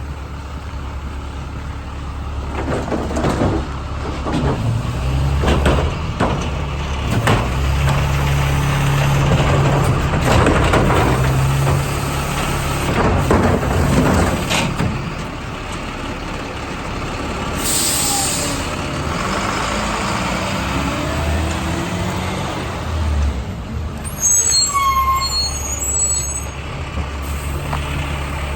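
Garbage truck diesel engine running, with a string of clanks and bangs through the first half. A short air brake hiss comes about 18 seconds in, and a brief high squeal falls in pitch about 25 seconds in.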